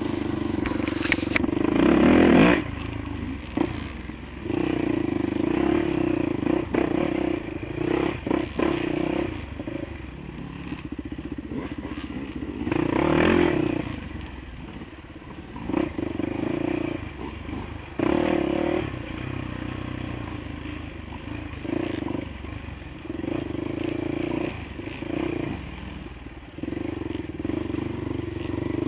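Dirt bike engine running while ridden over a rough track, the note coming and going as the throttle is opened and shut, with scattered knocks and rattles from the bike over bumps.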